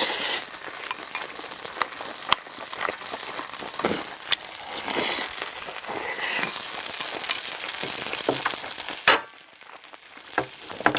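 Octopus fried rice sizzling in a hot pan, with scattered clicks of a spoon against the pan. A loud knock comes about nine seconds in, after which the sizzling is much quieter.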